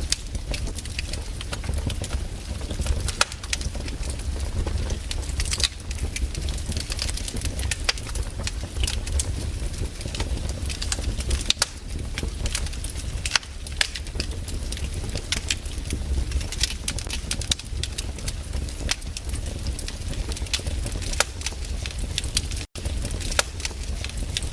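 Wood campfire crackling, with frequent sharp pops and snaps over a steady low rumble. The sound drops out for an instant about 23 seconds in.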